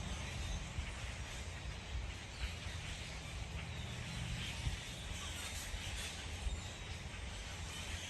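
Outdoor ambience at a backyard bird feeder: a steady low rumble with faint, scattered bird chirps.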